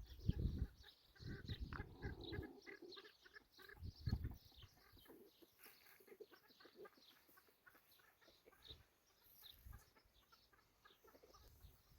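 Faint, scattered short bird calls, with a few low thumps in the first four seconds.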